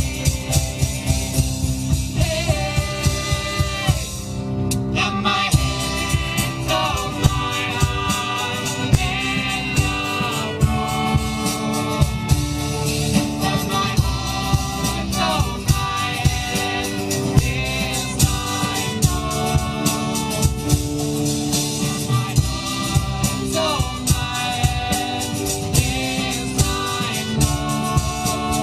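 Live band playing a folk-rock song: drums keep a steady beat under guitar and melody lines, with singing voices.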